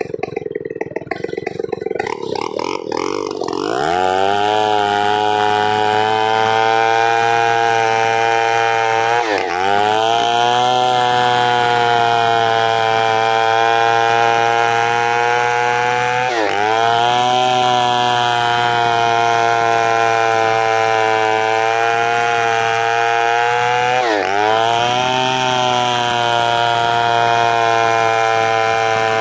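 Two-stroke chainsaw engine ticking over at first, then revved up with a rising whine to full throttle about three seconds in and held at high speed. Its pitch drops briefly and climbs back three times, about every seven seconds.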